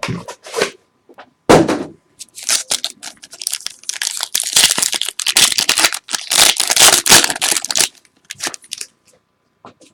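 A thump about a second and a half in, then a few seconds of plastic wrapping being torn and crinkled as a box of trading cards is opened.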